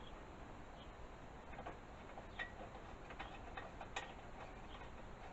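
Faint, irregular small clicks and taps as a spark plug is fitted back into a lawnmower engine.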